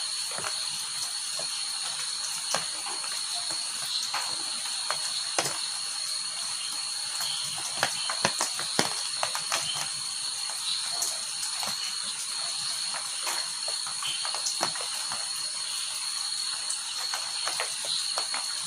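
Rain falling steadily, with many irregular sharper drops striking close by, over a steady high-pitched drone.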